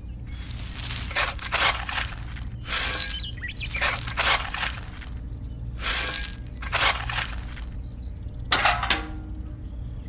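Small metal trowel digging into gravel and tipping the stones into a small tin bucket, the stones rattling and clinking against the metal in several separate scoops with short pauses between, over a steady low hum.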